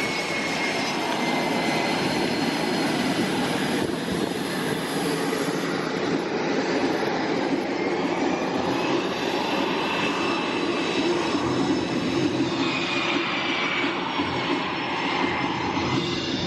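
Military aircraft engines running steadily: a loud, continuous roar with a faint high whine that drifts slowly in pitch.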